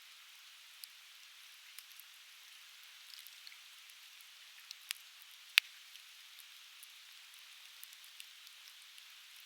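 Conifer firewood burning in an open campfire, crackling with scattered sharp pops over a steady hiss; the loudest pop comes a little past halfway.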